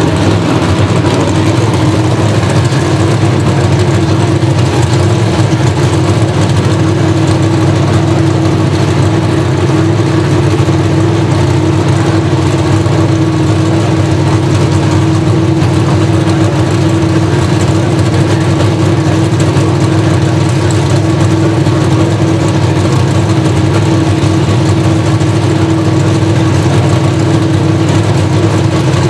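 Pro Stock drag-racing cars' naturally aspirated V8 engines running at a steady idle, the note held level without revving up.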